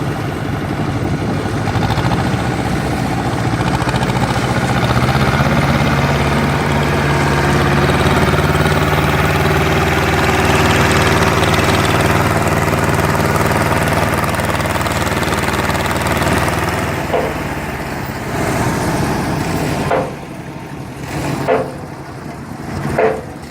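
Tractor's diesel engine running steadily, growing a little louder through the middle before easing off. Near the end it is quieter, and a few short knocks sound.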